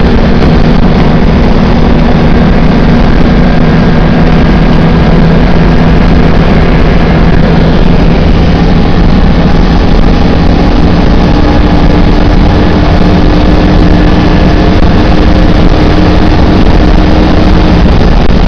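Citroën Dyane 6's small air-cooled flat-twin engine running hard at motorway speed, around 130 km/h, heard from inside the cabin. It makes a loud, steady drone over a dense rush of noise, with one tone creeping slightly higher about halfway through as the speed builds.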